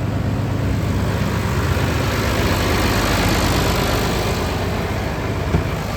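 A vehicle engine idling steadily with a low hum. A single brief knock comes near the end.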